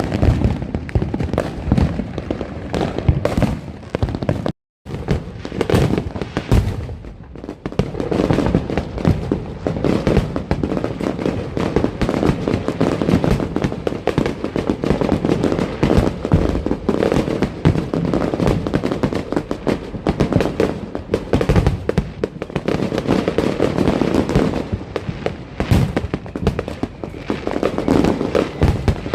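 Dense, nonstop neighbourhood fireworks and firecrackers: rapid overlapping pops, crackles and bangs with no let-up, broken by a brief total dropout about four and a half seconds in.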